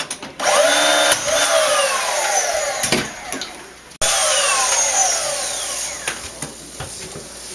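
Power saw cutting wood in two runs, each with a pitch that falls steadily as the blade bogs down or winds down.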